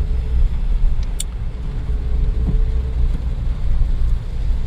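Steady low rumble of a car being driven, heard from inside the cabin, with a faint steady hum. There is one brief click about a second in.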